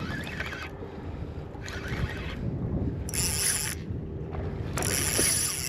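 Fishing reel's drag buzzing twice, each burst under a second, as a hooked snook pulls line off against it. Steady wind buffeting the microphone underneath.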